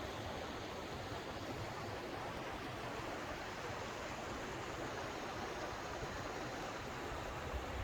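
Steady rushing of running stream water.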